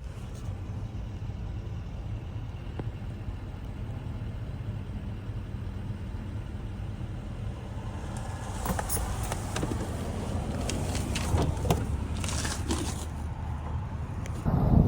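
Twin-turbo Mitsubishi Mighty Max pickup's engine running with a steady low hum, heard from the cab. About halfway through, scattered clicks and rattles join it, and it gets louder near the end.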